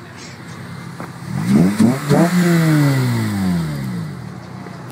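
Car engine revving up sharply twice, about a second and a half in, then its pitch falling gradually as the sound fades over the next two seconds.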